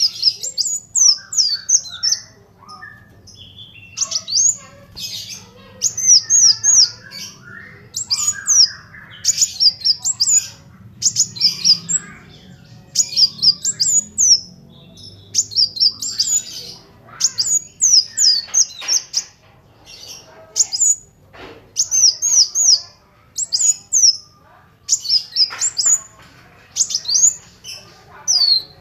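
A kolibri wulung (a sunbird) singing continuously in rapid clusters of sharp, high, downward-sweeping chirps, phrase after phrase about every second.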